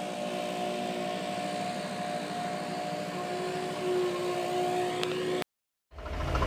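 Global TV traffic helicopter running, a steady turbine whine over rotor noise. About five and a half seconds in, the sound cuts out for a moment and comes back louder, with a fast low throbbing.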